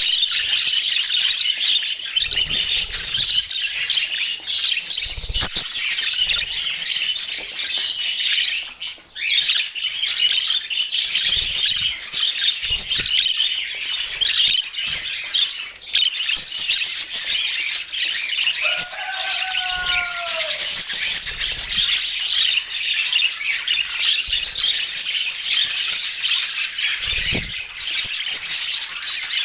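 A flock of budgerigars chattering and warbling nonstop, with a brief lull about nine seconds in and one lower call that falls in pitch about two-thirds of the way through.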